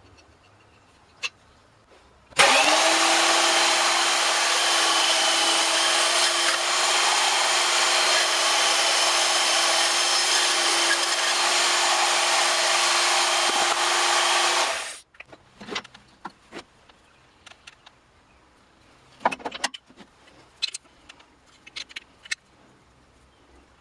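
An electric power tool starts up about two seconds in and runs steadily for about twelve seconds, with a steady whine over a loud hiss, while a steel bolt is being machined into a replacement chain bar stud. It stops abruptly, and scattered light clicks and knocks of handling follow.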